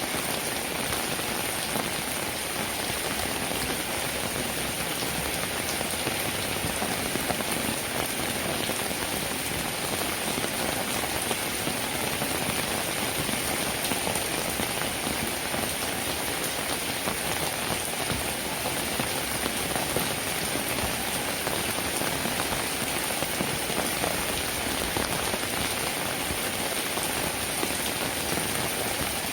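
Steady rainfall, even and unchanging, with individual raindrop hits heard through the wash of rain.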